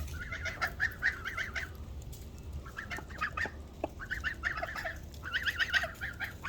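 Young geese and chickens calling together in a flock: rapid runs of short, high calls, thinning out for a couple of seconds in the middle and picking up again near the end.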